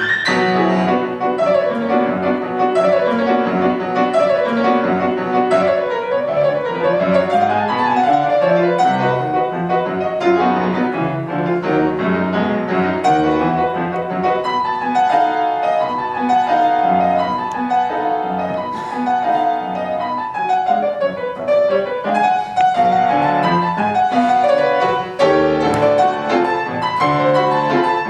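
Piano playing a classical piece, with quick runs of notes rising and falling.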